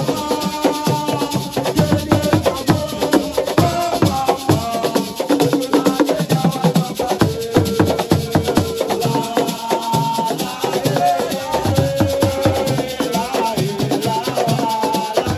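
Assiko percussion music: fast, dense drumming with rattles shaking, under voices singing long held notes.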